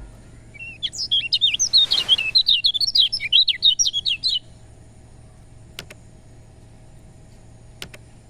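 Kecial kuning, a white-eye, singing a fast run of high, rapidly changing chirps that stops about four seconds in. A few faint clicks follow.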